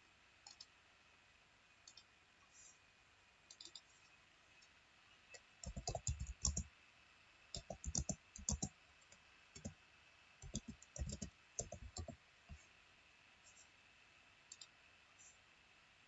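Computer keyboard typing and mouse clicks in short irregular bursts, separated by quiet gaps, over a faint steady high tone.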